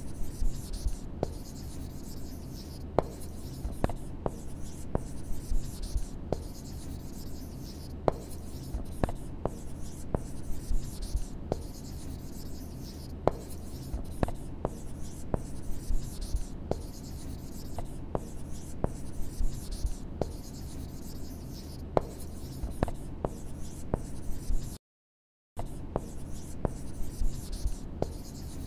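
Marker writing: continuous scratchy strokes with frequent light clicks, over a low steady hum. The writing sound cuts out completely for under a second about 25 seconds in, then resumes.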